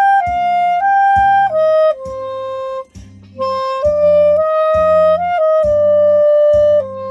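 Clarinet played by an amateur of five months, carrying a slow melody of held notes with a short breath pause about three seconds in, over a steady low beat.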